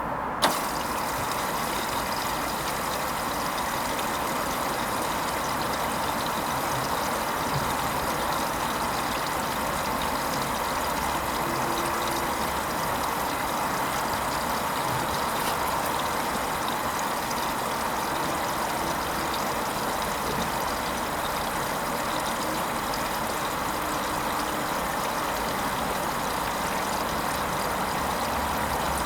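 Hoover Vision HVP16 front-loading washing machine at the start of its Silks 30 cycle: a sharp click just after the start, then a steady rush of water as the machine fills.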